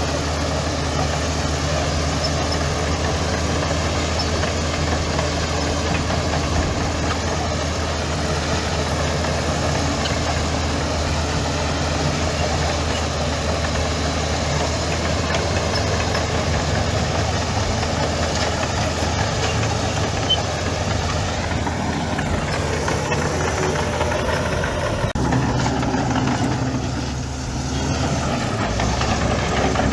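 Heavy diesel engine of earth-moving machinery running steadily, its note shifting about 25 seconds in.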